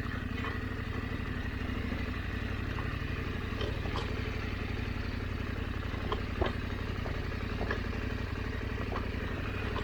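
KTM 890 Adventure's parallel-twin engine running steadily at low revs on a slow trail ride, with a few light clicks and knocks scattered through.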